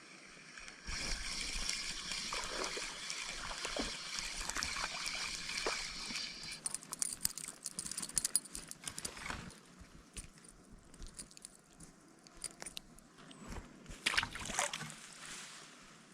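Stream water splashing and trickling, with a run of small sharp clicks and knocks in the middle and a short louder splash or knock near the end.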